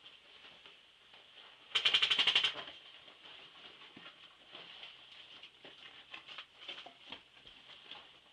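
Airsoft gun firing one short full-auto burst of a little under a second, about twenty shots a second, about two seconds in. Faint rustling and clicks over a steady high hiss.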